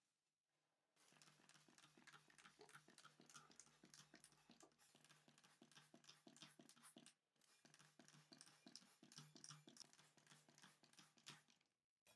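Faint, rapid, irregular scratching and scraping strokes of hand work on a workpiece. They stop briefly about seven seconds in, then start again.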